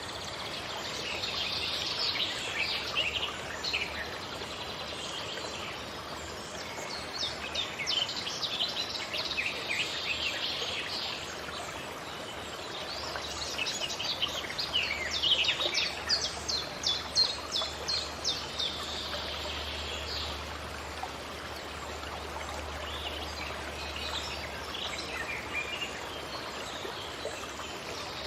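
Several forest birds singing and calling with short chirps and trills over a steady background hiss. About halfway through, one bird gives a quick run of repeated notes, about three a second.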